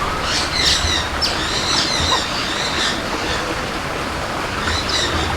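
Small birds chirping in short, high calls, many times over, above a steady rushing background noise.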